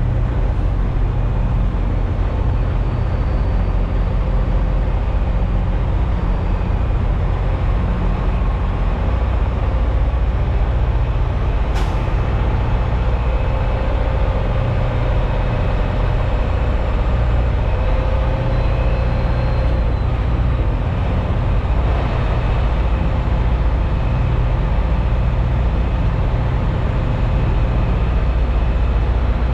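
Freightliner semi truck's diesel engine droning steadily with road noise while cruising, with a single sharp click about twelve seconds in.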